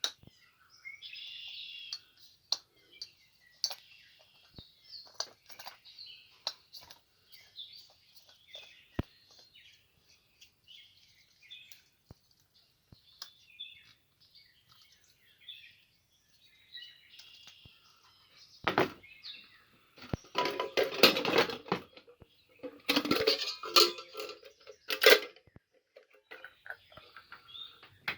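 Small birds chirping and singing, then, about two-thirds of the way through, a run of loud clattering and clinking from pots and dishes being handled.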